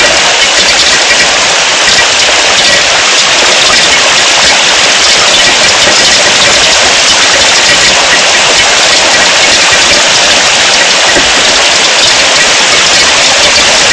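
Heavy rain falling, a loud, steady hiss of downpour.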